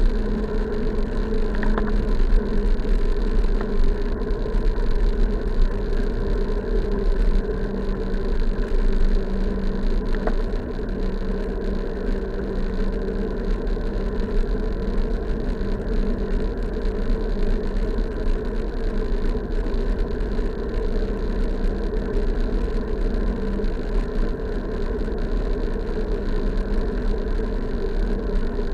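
Steady running noise of a bike ride along the road: a constant low rumble with a steady hum over it, unbroken throughout.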